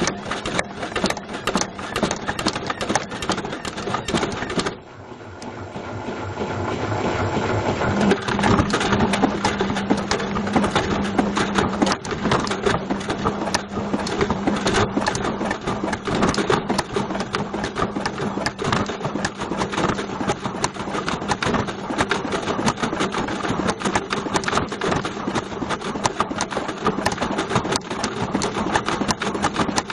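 Bush VCR807 video recorder clattering and banging around inside the drum of a running Beko washing machine, a dense, continuous racket of knocks. About five seconds in the clatter drops off for a moment, then builds back up over a few seconds as the drum turns again, with a steady motor hum under it.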